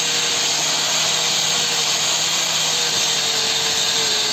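Hand-held electric power tool running steadily, with a constant hiss and a whine that sinks slightly in pitch.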